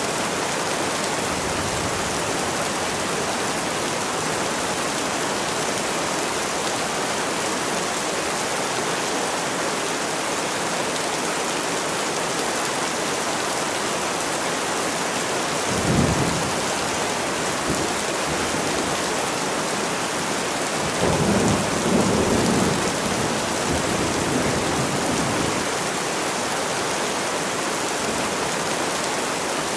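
Steady rain, with a short low rumble of thunder about halfway through and a longer rolling rumble a few seconds later.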